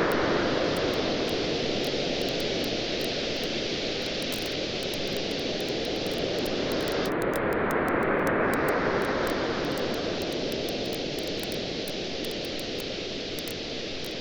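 Surf washing onto a beach in two slow surges, the first near the start and the next about eight seconds in, with a wood fire crackling and popping throughout.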